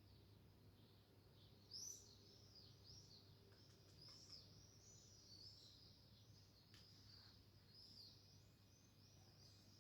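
Faint birdsong: many short, high chirps in quick succession, over a steady low hum.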